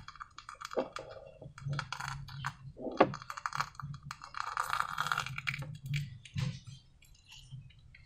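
Small hand-handling sounds of slime-making materials: an irregular run of light clicks and taps, with a couple of short crackling, squishing stretches.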